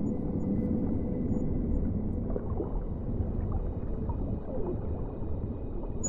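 Whale song over a steady low underwater rumble: a long held tone that fades out over the first couple of seconds, then short moans and a falling sweep in pitch around the middle.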